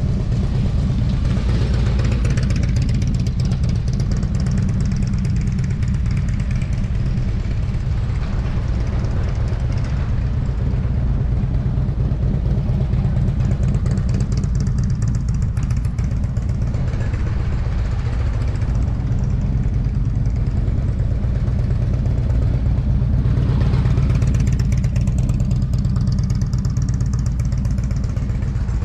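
Motorcycle engine running with a continuous low drone. It swells a few times, loudest about two thirds of the way through.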